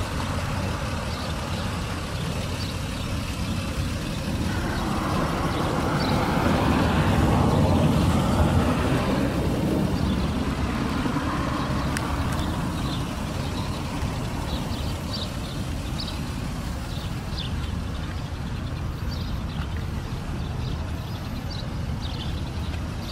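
Toyota Crown S150's 2.5-litre 1JZ inline-six idling steadily, a low, even rumble. A louder rush of noise swells and fades for a few seconds near the middle.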